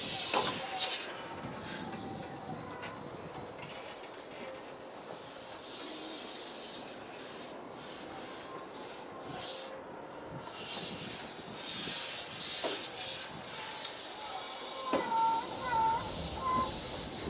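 Train wheels squealing and hissing against the rails as a TEMU1000 Taroko trainset is pushed slowly at walking pace by a switcher engine. There are steady high-pitched squeals in the first few seconds, and a short wavering squeal about two seconds before the end.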